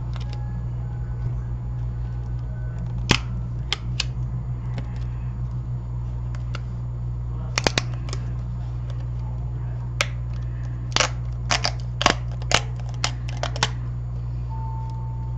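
Sharp small clicks and taps of hand tools on an opened iPad Air during disassembly toward the mainboard: scattered single clicks, then a quick run of about ten near the end. A steady low hum runs underneath.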